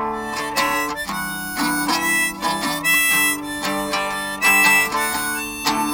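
Harmonica playing a melody over strummed acoustic guitar: the song's instrumental intro.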